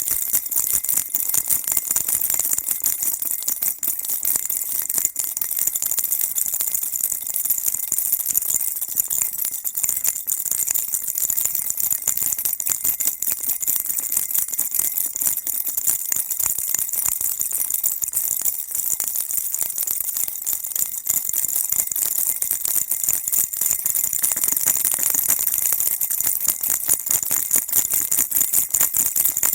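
Baby rattle shaken continuously: a dense, steady, high jingling rattle of small beads or bells, kept up without pause as soothing white noise.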